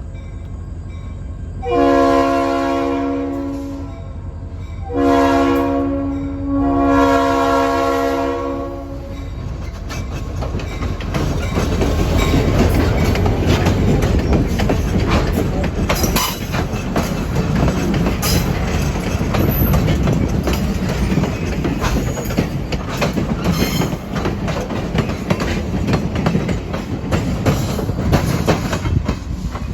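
Train horn sounds three times, the last the longest, then a train rolls by with a steady rumble and rapid clicking of wheels over the rail joints.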